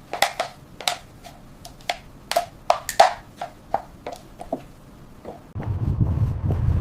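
A run of irregular light taps and clicks, some with a short ringing note. A low steady rumble comes in about five and a half seconds in.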